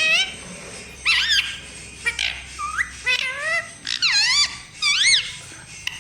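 A parrot calling 'mummy' over and over in short, high-pitched calls that bend up and down, about seven in quick succession.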